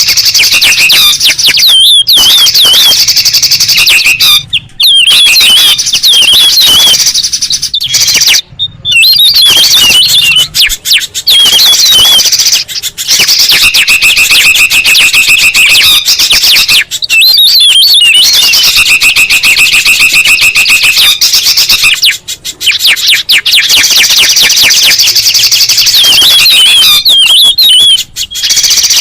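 Layered bird-lure recording of bulbul and spiderhunter calls: loud, continuous chattering and trilling from several birds at once, with brief gaps every few seconds.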